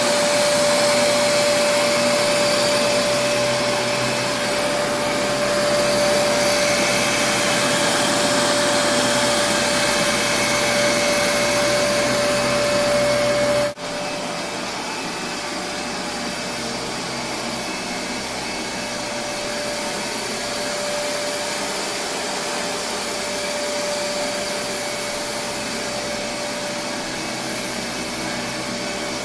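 Kenmore Progressive DirectDrive upright vacuum cleaner running steadily, its motor whine carrying a steady tone over the rush of air; the brushroll is driven by a motor inside the roller rather than a belt. About halfway through the sound cuts out for an instant and comes back quieter.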